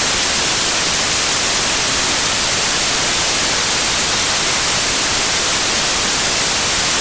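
Steady synthetic noise: an even, unchanging hiss with most of its energy in the treble.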